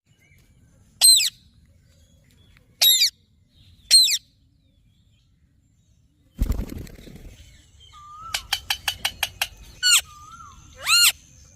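A pet parrot giving short, shrill calls: three spaced calls, then a loud low flutter about six seconds in. This is followed by a rapid run of about eight clicks a second and two more shrill calls near the end.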